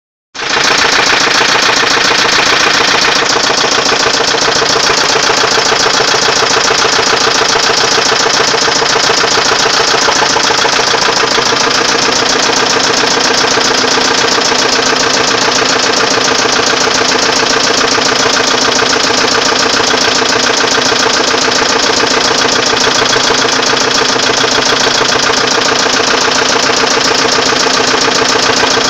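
Volvo 850's inline five-cylinder engine running at a steady speed with a rapid, even knocking: a noise of unknown cause that the owner wants to cure.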